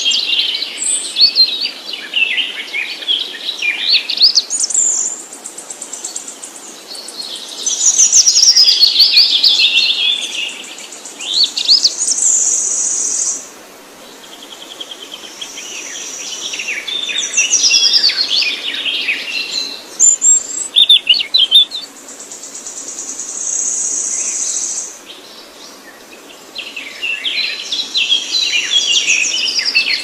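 Many small birds chirping and twittering at once, quick overlapping calls and trills. A steady high-pitched buzz rises under them twice and then cuts off.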